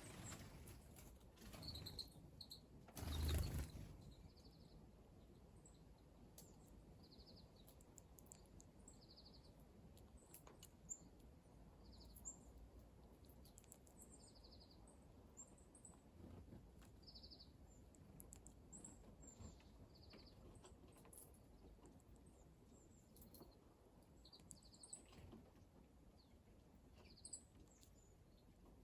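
Small wild songbirds calling faintly, short high chirps repeated every second or two. A brief, louder noise comes about three seconds in.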